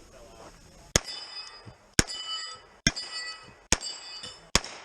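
Five revolver shots at a steady pace, a little under a second apart, each followed by the ringing of struck steel targets.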